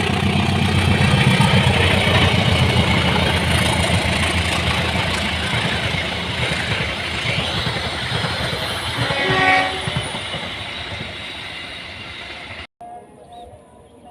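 Diesel train passing close by: a steady engine drone with rumbling wheel and rail noise, loudest in the first couple of seconds and then slowly fading. A short horn note sounds about nine and a half seconds in, and the sound cuts off abruptly near the end.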